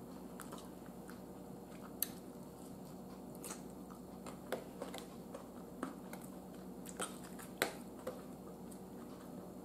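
Close-up chewing of crisp chopped salad, with scattered sharp clicks and crunches of the lettuce and fork against the plate, over a faint steady hum.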